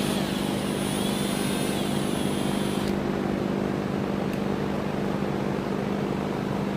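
Electric drill running steadily at constant speed while drilling through the steel rear trunnion of an AK-pattern pistol. A thin high squeal over the motor hum stops about three seconds in.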